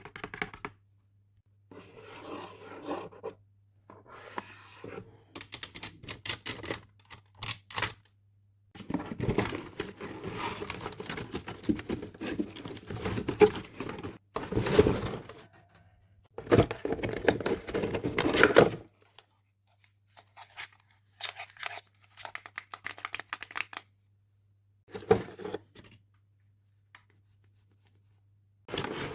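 Close-up handling of toy packaging and plastic parts: bursts of tearing and rustling with runs of sharp clicks, in separate bouts with silent gaps between them.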